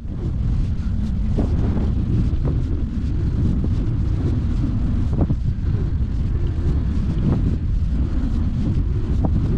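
Wind buffeting the microphone of a camera on a moving gravel bike, a steady low rumble with scattered short knocks from the bike going over rough ground.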